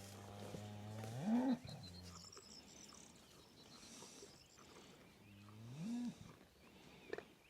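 Dexter cattle mooing twice, the first call the louder: each low call holds steady, then swoops up in pitch and breaks off. A short click comes near the end.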